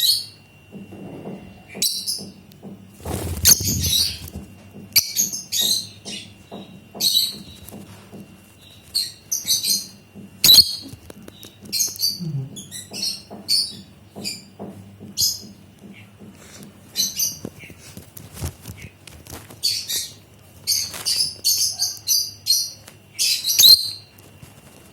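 A pet lutino lovebird and pineapple conure chirping: short, high-pitched chirps repeated in quick clusters, with a few soft knocks and taps among them.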